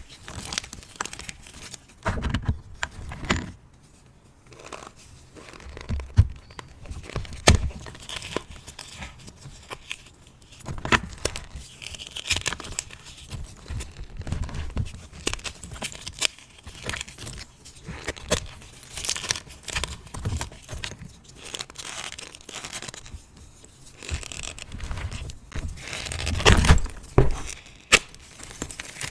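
Hard reformed gym chalk lightly coated in cornstarch being crushed and crumbled by hand: irregular sharp cracks and crunches over a gritty, squeaky crumbling, with louder breaks every few seconds. The chalk is hard and resists breaking.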